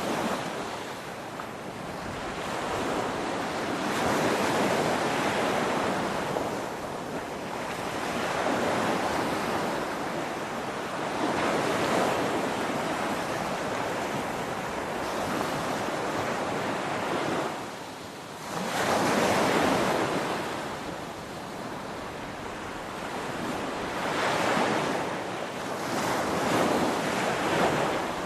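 Ocean waves breaking on a shore: steady surf noise that swells and ebbs every few seconds, with a brief lull a little past halfway and then the loudest wave right after it.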